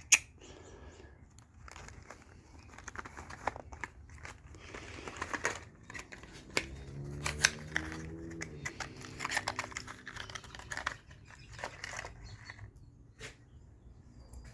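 Packaging of new NGK G-Power platinum spark plugs crinkling and tearing as it is opened by hand, with scattered small clicks. A brief low hum runs through the middle.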